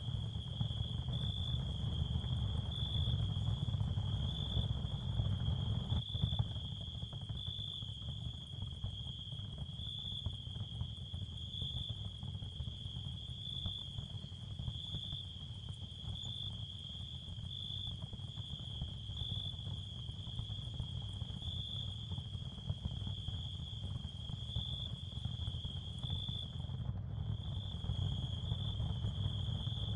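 Ambient sound-therapy sound field: a steady high-pitched tone that swells slightly about once a second, over a constant low rumble. The high tone breaks off for a moment near the end.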